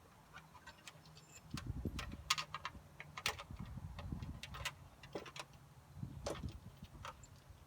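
Hand tools working on a car's front suspension from underneath: irregular sharp clicks and clinks, some in quick little runs like a ratchet wrench being worked, over low knocks and handling noise.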